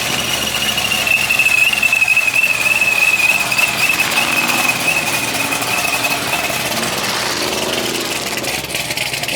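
A car engine running hard with a loud, wavering tyre squeal, as in a donut or burnout; the squeal dies away about six seconds in while the engine and tyre noise go on.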